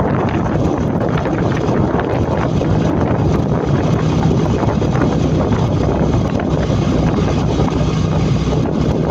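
Wind buffeting the microphone on a moving motorcycle, with the motorcycle's engine running steadily underneath.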